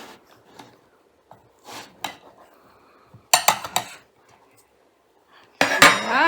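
Cutlery knocking and scraping against a pan while a chilled oat bar is cut: scattered light clicks, a quick cluster of sharp knocks a little over three seconds in, and a loud ringing clang near the end.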